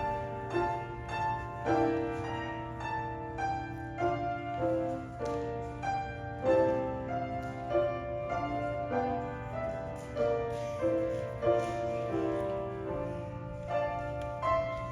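Piano playing a slow, measured piece of single notes and chords, each struck clearly and left to ring, over a steady low hum.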